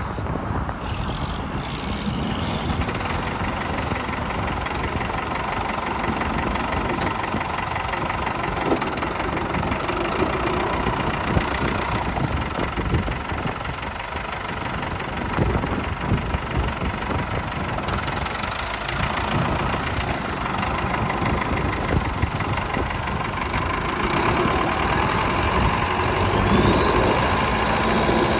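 Ford 7700 tractor's diesel engine idling steadily, growing a little louder near the end with a rising whine.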